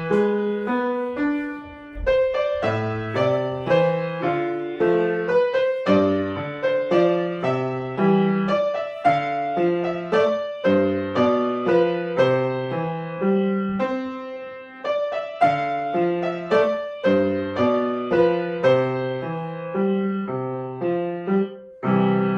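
Solo piano playing a piece with an even, steady rhythm of bass notes and melody chords, striking a fresh loud chord near the end.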